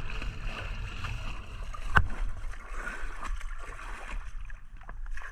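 Water noise around a small dinghy, with a single sharp knock about two seconds in.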